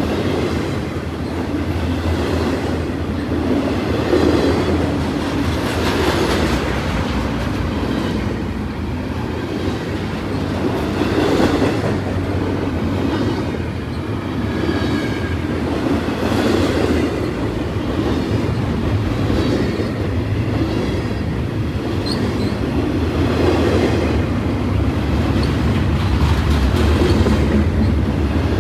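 Freight train cars rolling past: a steady, loud rolling noise of wheels on rail that swells every few seconds, with clacking over rail joints and a faint wheel squeal now and then.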